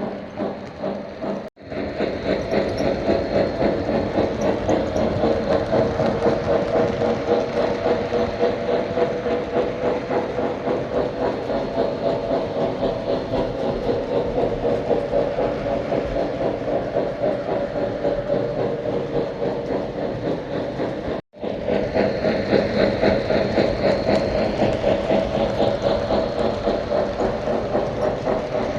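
Lionel O gauge toy train running on its track: a steady, fast rhythmic rumble of the locomotive and wheels, cutting out briefly twice.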